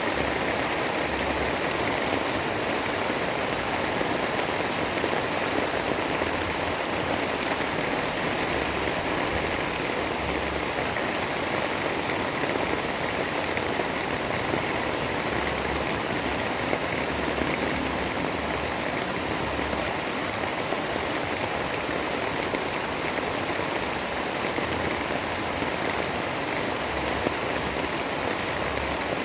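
Steady storm ambience: an even, unbroken rush of rain falling, with no thunder or gusts standing out.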